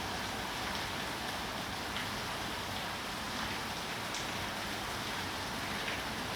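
Steady rain falling, a constant hiss with a few faint single drop ticks.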